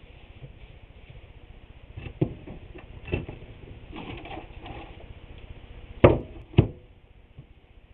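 Wooden trim boards being handled during glue-up: scattered knocks and rubbing, then two sharp knocks half a second apart about six seconds in.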